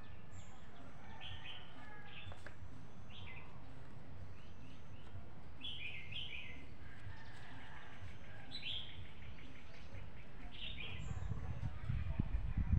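Small birds chirping: short, downward-sliding chirps about once a second, over a steady low rumble. A few low thuds come near the end.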